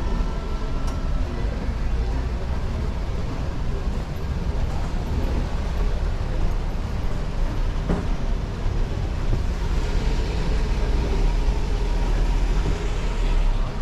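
Town street traffic: motor vehicles running close by, a steady low rumble over general street noise.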